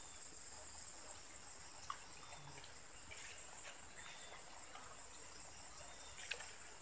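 A steady, high-pitched chorus of insects chirring with a fast, even pulse.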